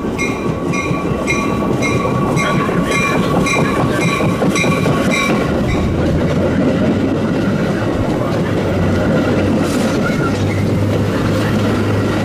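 Metra diesel commuter train pulling into the station, rumbling with wheels clicking over the rails. A bell rings about twice a second and stops about five seconds in, after which a low steady hum rises under the rumble.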